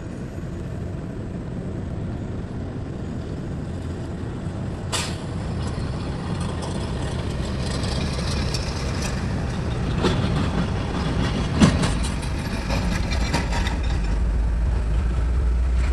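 Heavy diesel machinery running steadily, with a sharp knock about a third of the way in and a run of clanks and rattles through the middle, the loudest knock about two-thirds through. The low engine rumble grows stronger near the end.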